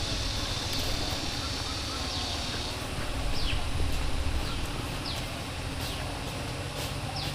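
Rural outdoor ambience: a steady high insect buzz for the first few seconds, then short falling bird calls repeated every second or so over a low rumble.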